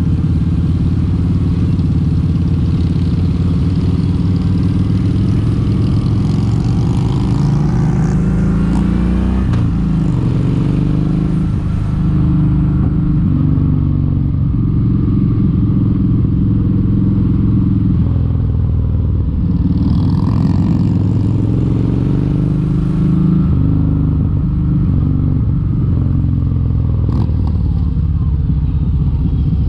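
Kawasaki Vulcan 1700 Vaquero's V-twin engine running at riding speed, its note dipping and climbing again a few times as the throttle is eased and reopened.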